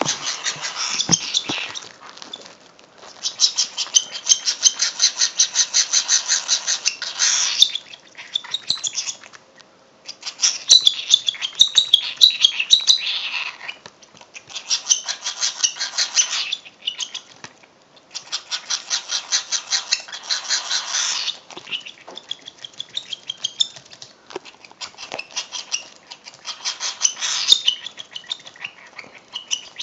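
Baby cockatiel crying to be fed: high-pitched, rasping begging calls, many pulses a second, in runs of a few seconds broken by short pauses.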